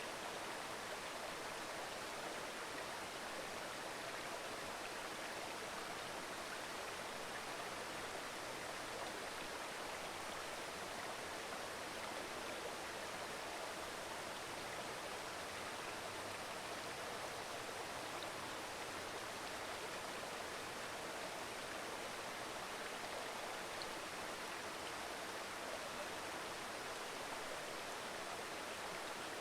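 A mountain stream burbling and rushing steadily over rocks.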